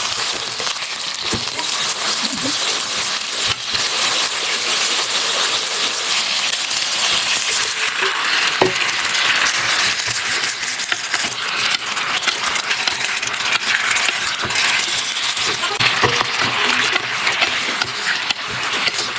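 Food frying in a pan: a steady sizzle with crackles and occasional clinks of a utensil against the pan.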